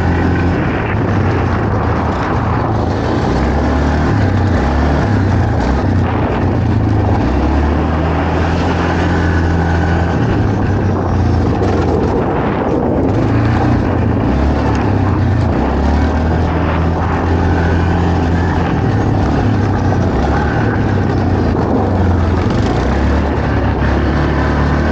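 ATV engine running hard at speed, its pitch rising and falling with the throttle, over a steady rush of noise.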